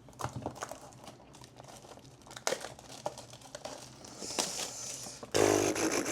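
Plastic wrapping on a sealed trading card box crinkling and tearing as the box is opened, with many small crackles, then a louder tear starting suddenly about five seconds in.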